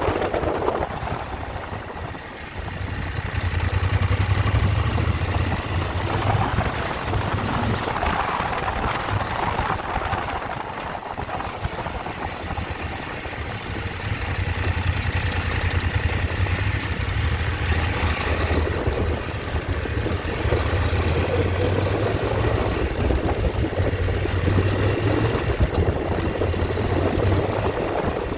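Motorcycle engine running with a steady, rapid low pulse. It dips briefly about two seconds in, then picks up again.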